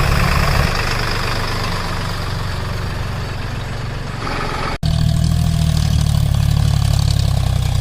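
Tractor engine running steadily, with a hissy rush over it for the first few seconds. A sudden brief cut a little before five seconds in, then the engine idles on evenly.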